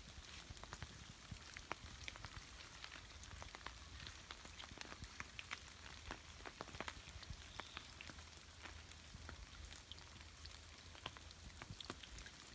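Light rain falling in bushland: many scattered drops tapping sharply and irregularly over a soft, steady hiss.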